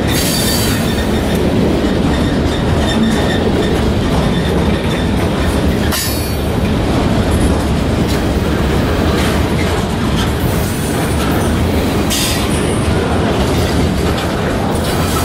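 Loaded steel-carrying bulkhead flatcars of a long freight train rolling past close by: a steady loud rumble of wheels on rail with clickety-clack over the joints. A few times there is a brief high-pitched wheel screech.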